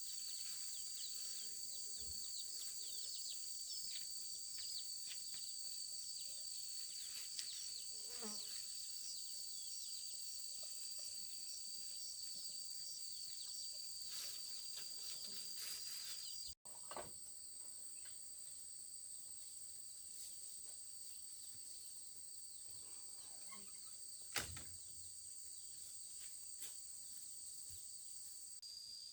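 Insects chirring in a steady high-pitched chorus, with a fast pulsing trill above it. The sound cuts out for an instant about halfway, and a single sharp knock comes about three quarters of the way through.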